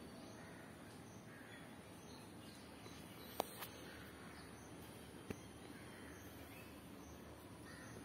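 Faint bird calls repeating about once a second, with two sharp clicks, the first about three and a half seconds in and the second about two seconds later.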